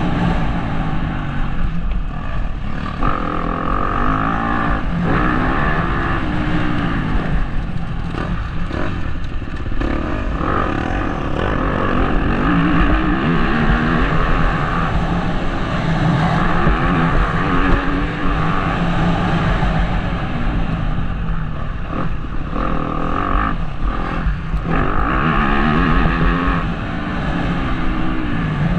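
Motocross bike engine revving up and easing off again and again as it is ridden round a track, heard from a helmet-mounted camera.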